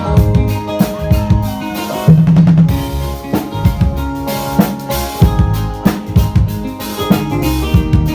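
A band playing, led by a drum kit: frequent kick and snare hits over held pitched instrument notes, with a loud low note about two seconds in.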